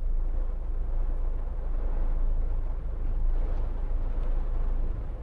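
Inside a moving car in heavy rain: a steady low rumble of engine and wet road, with an even hiss of rain and tyres.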